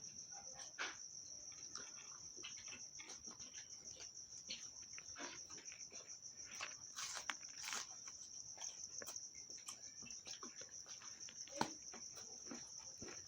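Wet mouth clicks, smacks and chewing of someone eating, many short irregular sounds. Behind them runs a steady high-pitched insect trill, like crickets.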